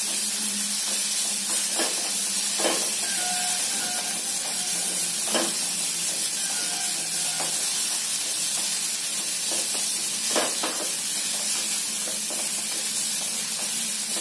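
Crushed green peas sizzling in hot oil in a nonstick kadai as they roast on a low flame, stirred with a wooden spatula: a steady frying hiss with a few short scrapes and taps of the spatula against the pan.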